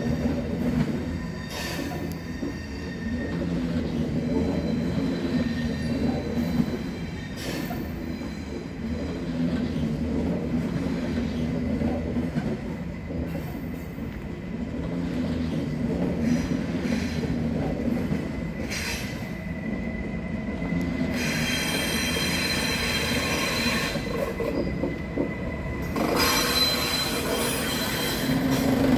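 ICE high-speed train rolling slowly past, a steady low rumble of wheels on rail. Twice in the last third, loudest near the end, the wheels squeal in high screeching tones.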